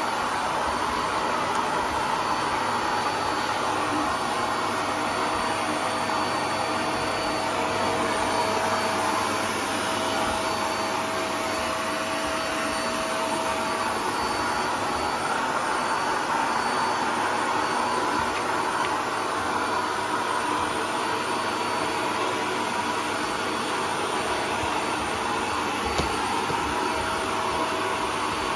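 Household vacuum cleaner running steadily.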